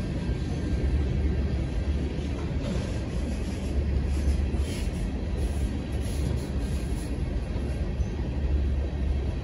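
Loaded freight train of tank cars rolling past at close range: a steady, low rumble of wheels on rail.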